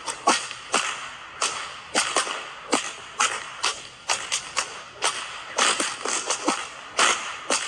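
A rapid, irregular series of sharp cracks or snaps, about two to three a second.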